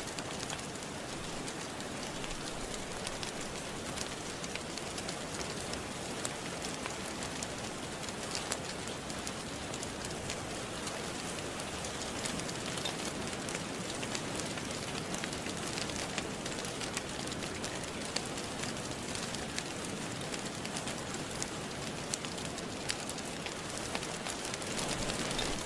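Steady rain with a wood fire crackling, sharp little pops scattered all through.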